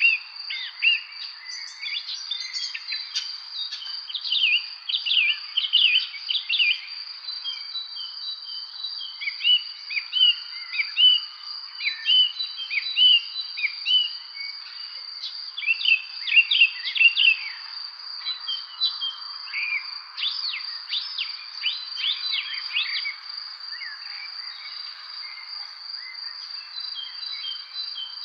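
Songbirds chirping and trilling in quick, overlapping phrases over a steady high-pitched insect drone, as in a spring evening chorus.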